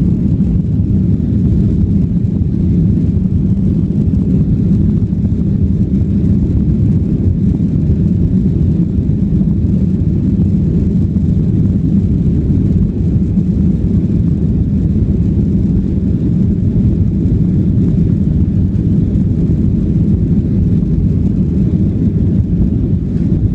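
Airliner taking off: a steady, low rumble of engine and air noise that holds at one level throughout.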